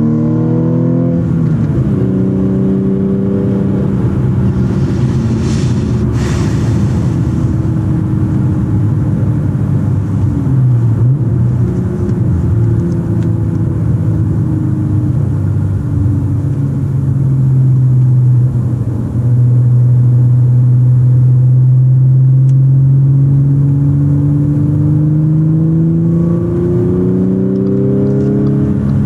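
Audi S4 B8.5's supercharged 3.0 V6, fitted with an X-pipe exhaust and APR intake, heard from inside the cabin under way. The revs climb and drop at a gear change about a second in, then the engine runs steadily at cruise with its pitch slowly sagging. Over the last several seconds it pulls again, the revs rising steadily.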